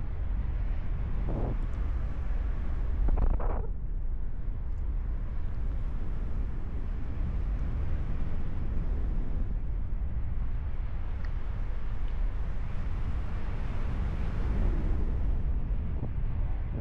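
Wind buffeting the microphone in paragliding flight: a steady low rumble of airflow with a hiss above it.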